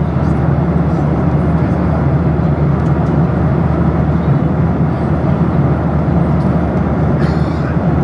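Steady cabin noise inside a Boeing 737-800 in flight: an even rush of engine and airflow with a strong low hum, unchanging throughout.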